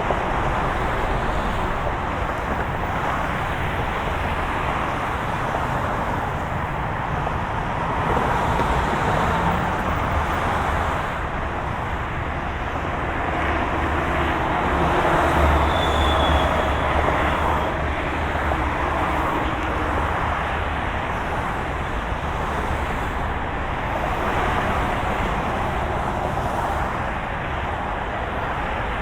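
Steady noise of a moving car: road and tyre rumble with a low engine hum, swelling a little twice and easing again.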